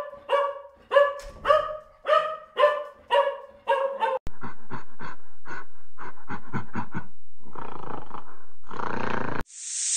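A dog barking repeatedly, about two barks a second for roughly four seconds. After an abrupt change there are quicker, shorter sounds, and two rough noisy bursts near the end.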